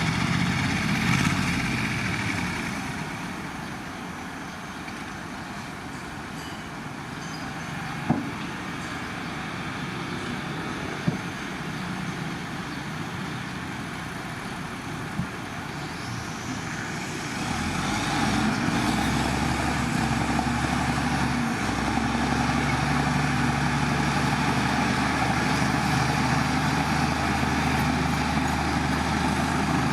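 Heavy diesel earthmoving machinery running, with a few sharp knocks in the middle. A little past halfway a diesel engine grows louder and settles into a steady, deeper drone.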